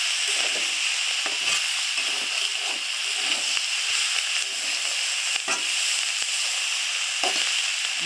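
Spring onion stalks and diced potato sizzling in oil in a karahi, stirred with a spatula that scrapes across the pan bottom again and again, with a few sharp clicks of the spatula on the metal. The pan is new, and the bhaji is catching and sticking to it.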